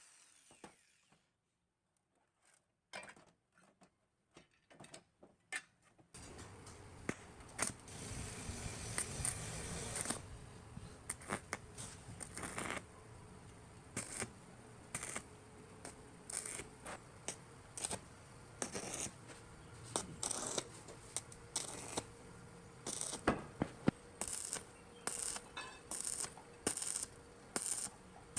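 Small metal parts clicking and clinking in hand work on the pump, with some light scraping. The clicks are sparse over the first few seconds and come thick and fast after that, over a steady low background.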